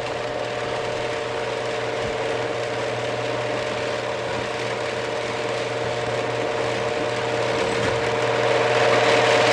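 Genie GX9000 screw-drive garage door opener running, its motor and screw drive giving a steady hum with a whine, a little louder near the end.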